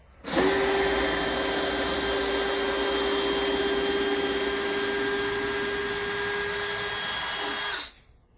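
Electric power tool motor running at one steady pitch for about seven and a half seconds, then stopping near the end.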